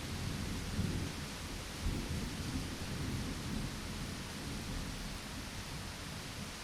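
Steady rain with a low, rolling rumble of thunder that dies away over the second half.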